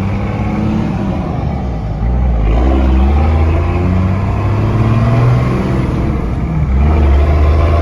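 A 1993 Dodge Ram's 5.9 12-valve Cummins turbo diesel pulling hard under acceleration. Its note climbs in pitch and drops back about two seconds in, then climbs again and dips near the end.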